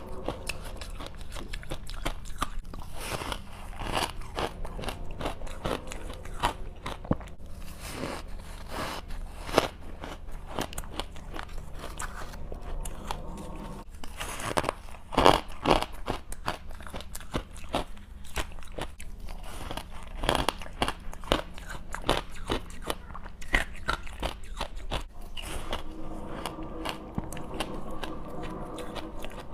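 Close-up biting and chewing of white frost ice soaked in passion fruit syrup: irregular crisp crunches and crackles, loudest about fifteen seconds in.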